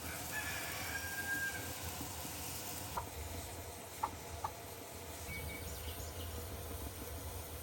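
A rooster crowing, the long held note of its crow trailing off in the first second and a half, followed by three short sharp clicks near the middle, over a steady low hum.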